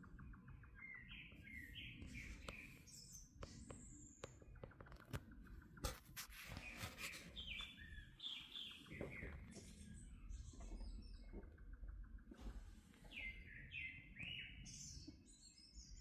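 Wild birds singing faintly, a few song phrases of quick descending notes repeated several times. A few sharp clicks come about midway.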